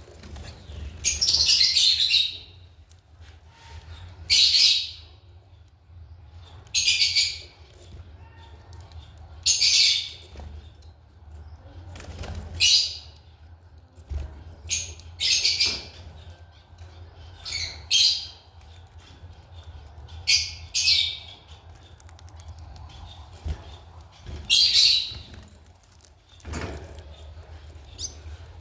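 A bird giving loud, shrill, harsh calls, one every two to three seconds, about a dozen in all, over a faint steady low hum.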